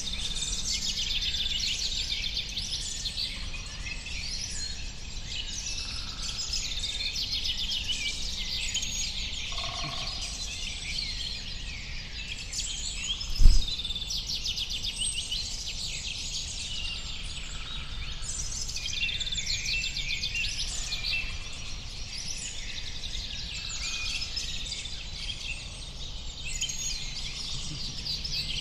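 Many small birds chirping and trilling at once in a dense, steady chorus over a low rumble, with a single short low thump about halfway through.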